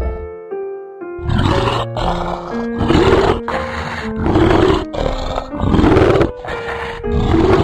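A big cat giving a series of about five rough, rasping roars, roughly one every second and a half, over background music with long held notes.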